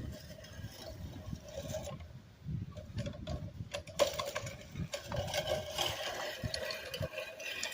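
Mechanical rattling and clicking over a steady faint hum, with one sharp click about four seconds in.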